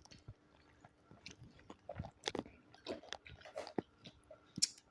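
Close-miked chewing and biting of food, made up of irregular short clicks and crunches.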